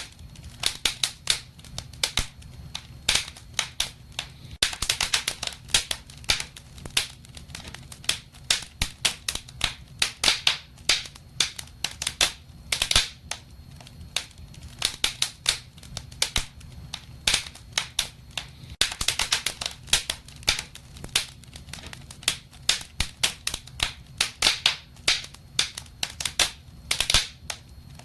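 Wood fire in a fireplace crackling: irregular sharp pops and snaps, often several a second in clusters, over a low steady rumble of the flames.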